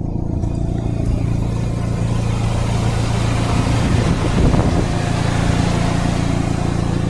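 2003 Geo Tracker 2.0-litre four-cylinder engine running during a throttle test, getting a little louder and rougher around four to five seconds in.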